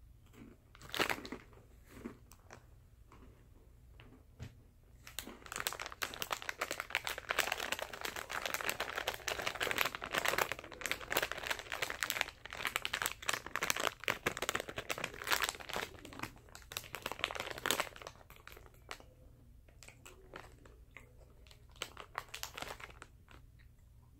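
Crinkling plastic wrapper of a Famous Amos cookie snack pack being handled. The crackling comes in a dense stretch from about five seconds in until about eighteen seconds, with sparser crackles and clicks before and after.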